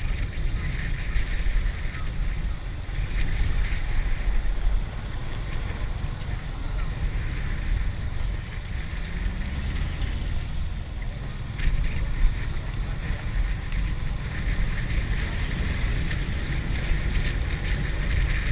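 Wind buffeting the microphone of a rider on the move: a heavy, continuous low rumble with a hiss above it.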